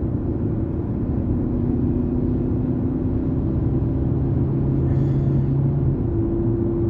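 Car driving, heard from inside the cabin: a steady low rumble of road and engine noise with a faint even hum.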